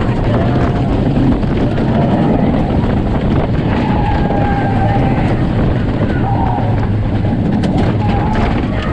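Roller coaster train running fast along the Lightning Rod's track, with a steady loud rush of wind over the microphone and rumble from the train, and riders shouting now and then over it.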